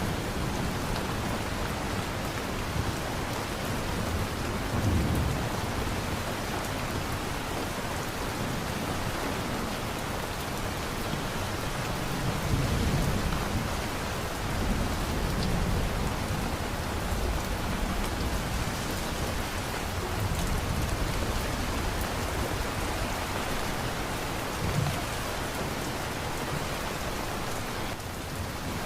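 Steady heavy rain pouring down in a thunderstorm, with low rumbles of thunder swelling up several times.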